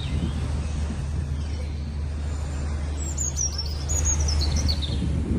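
A bird calling a quick run of short, high notes that step down in pitch, about three seconds in, over a steady low rumble of engine or traffic noise.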